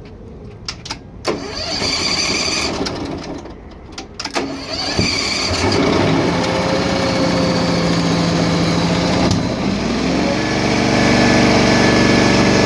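Truck-mount carpet cleaning machine's engine starting, preceded by a few clicks. A first try runs briefly and stops. The engine is started again, catches and keeps running, settling into a steady run near the end.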